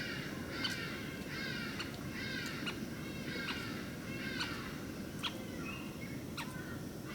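Birdsong: short chirping phrases of falling notes, repeated over and over, with scattered sharp clicks, over a steady low background rumble.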